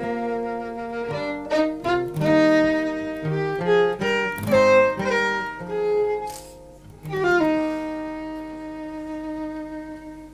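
Violin playing a slow melody over guitar, the song's closing instrumental. It ends on a long held note that fades away.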